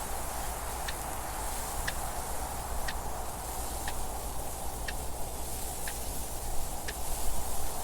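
A clock ticking steadily about once a second over a continuous wind noise that swells a little near the end.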